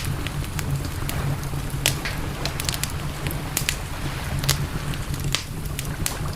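Campfire crackling, with irregular sharp pops and snaps scattered through it over a steady low rumble.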